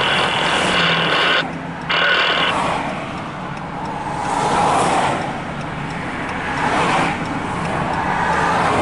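Rumble of passing vehicles, swelling and easing every couple of seconds. In the first two seconds a steady hum with several pitches runs alongside, cutting out briefly about a second and a half in.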